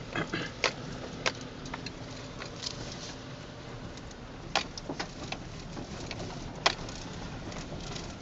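Steady low road rumble of a moving car heard from inside the cabin, with scattered sharp ticks and taps.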